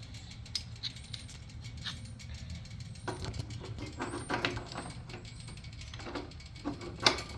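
Light metallic clinks and taps of hand tools and mounting hardware being handled while a motorcycle floorboard is adjusted, with a sharp click about seven seconds in, over a steady low hum.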